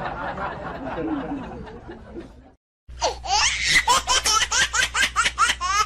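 Laughter sound effects back to back: a laugh fading away over the first two and a half seconds, then after a short silence a high-pitched, rapid laugh of quick rising yelps, several a second.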